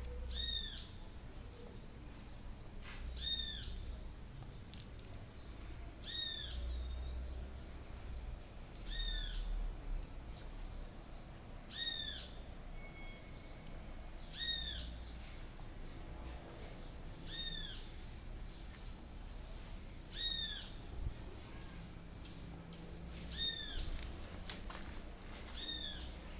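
A bird repeating one short, arched call about every three seconds, over a steady thin high-pitched tone.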